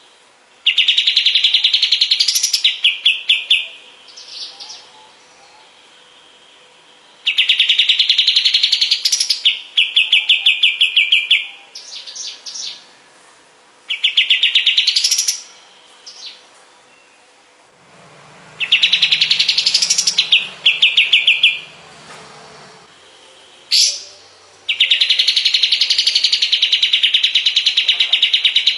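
Kapas tembak bulbul singing loudly in repeated phrases a few seconds apart. Each phrase is a rising whistle that breaks into a rapid stuttering trill, with a few short notes between the phrases.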